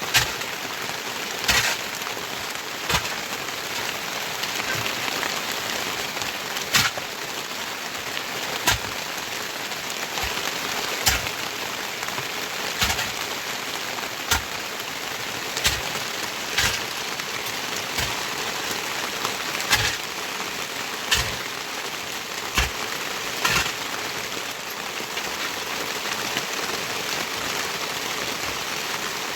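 Steady rain hissing, with large drops landing one at a time every second or two as sharp taps that are louder than the rain.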